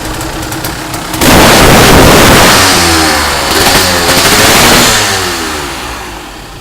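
250cc dirt bike engine revving hard close to the microphone. It comes in suddenly about a second in, its pitch rising and falling with the throttle, then fades away near the end.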